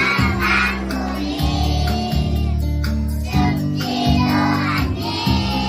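A group of young children singing a children's song together over an accompaniment with a steady bass line.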